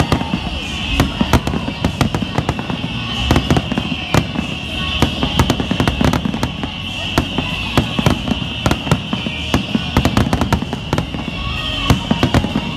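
Aerial fireworks display: a dense, continuous run of shell bursts, many bangs a second, over a steady crackle.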